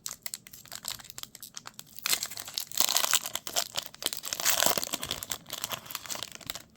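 Wrapper of a trading-card pack being torn open and crinkled: a run of quick crackles, then louder rustling bursts about two seconds and about four and a half seconds in.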